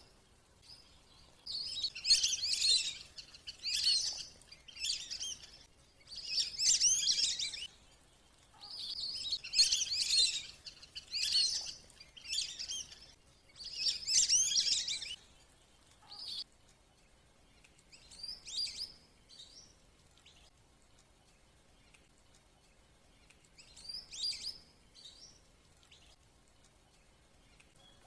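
Wandering whistling ducks (belibis kembang) calling in bursts of high twittering whistles, each about a second long, used as a lure call. The bursts come thick and loud in the first half, then thin out to a few fainter ones.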